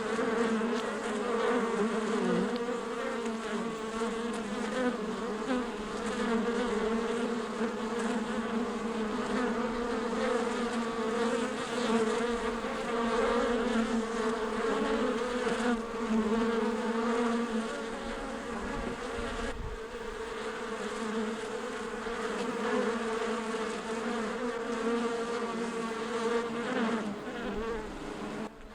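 Many bees buzzing together in a steady, dense hum as they forage on blossoming plum.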